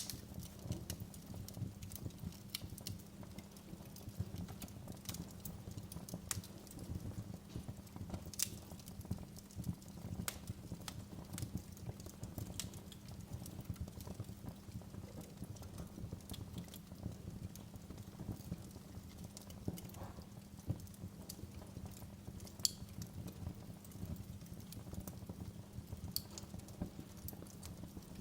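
Wood fire crackling in a fireplace: irregular sharp pops and snaps over a low, steady rumble from the flames.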